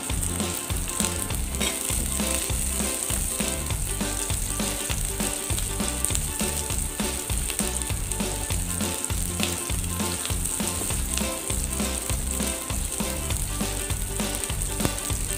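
Garlic, onion and ginger sizzling steadily in hot oil in a frying pan, with a spatula stirring them around.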